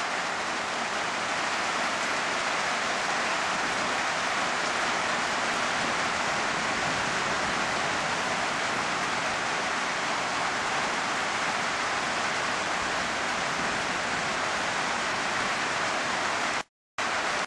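Steady hiss of a heavy downpour, cutting out briefly near the end.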